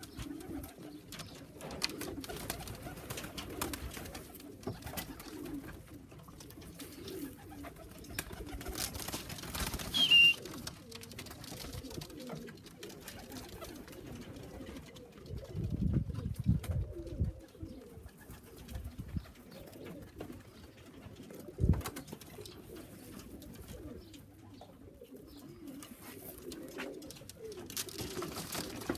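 Young racing pigeons cooing steadily, with a short loud sound and brief high squeak about ten seconds in, a louder low rumbling burst around sixteen seconds, and a sharp knock a little after twenty-one seconds.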